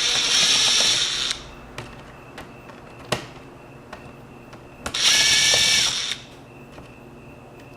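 Small power screwdriver running in two short bursts, about four seconds apart, backing out laptop case screws; a single click falls between them.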